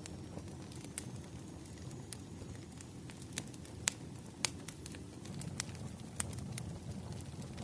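Wood fire crackling: a steady low rumble of burning logs with about ten sharp pops and crackles scattered through it, the loudest about four seconds in.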